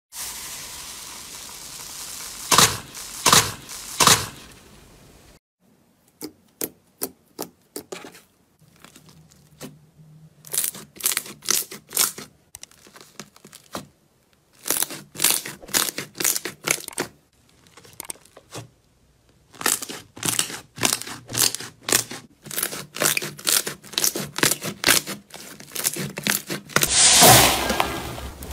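Crunchy slime being squeezed and poked, giving runs of crisp crackles and pops, a few a second, with a denser crackling stretch near the end.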